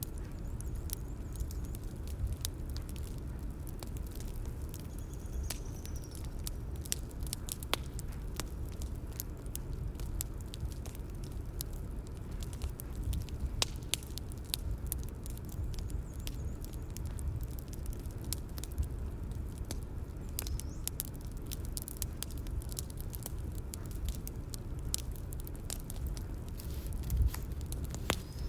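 Bonfire crackling: many sharp, irregular pops and snaps of burning wood over a steady low rumble of flame, with one slightly louder pop near the end.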